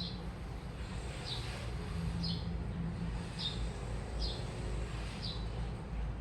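Washing machine running with a steady low rumble, while a short, high, falling chirp or squeak repeats about once a second.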